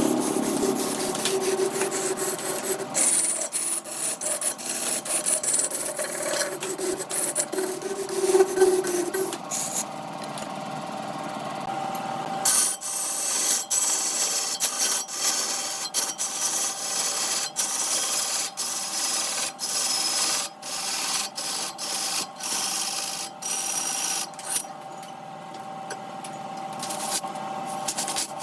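Wood lathe running while a turning tool scrapes against the spinning wood: a continuous rasping scrape broken by many short ticks, over a steady motor hum.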